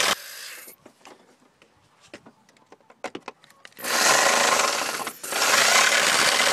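Power drill stops, leaving a few seconds of small clicks and taps, then runs again about four seconds in with a brief dip about a second later, its bit shaving the edges of a hole in the car's sheet metal wider.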